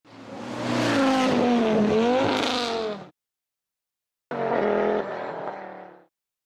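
A car engine sound effect: a loud run whose pitch dips and then rises again, cutting off suddenly after about three seconds. After a gap of about a second, a shorter burst with a steadier pitch fades out.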